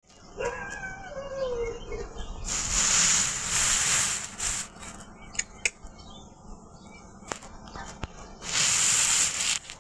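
Pet parrot giving a short warbling call with gliding pitch, then two long loud bursts of hiss-like noise, with a few sharp clicks between them.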